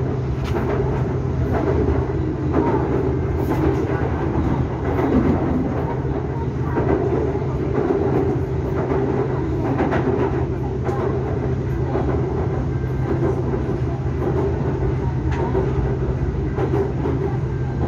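Sukhumvit line Skytrain car running along its elevated track, heard from inside the car: a steady low drone and rumble from the motors and wheels on the rails, with scattered light clicks and knocks.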